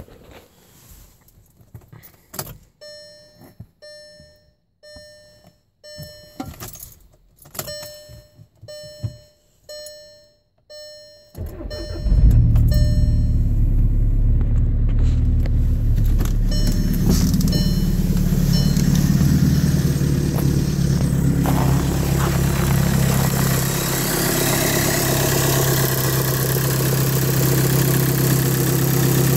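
A car's warning chime repeats about once a second with a few clicks, then about 12 seconds in the 2013 Jetta TDI's 2.0 four-cylinder diesel cranks and starts straight away from a cold soak at about −8 °F. It then runs steadily at cold idle.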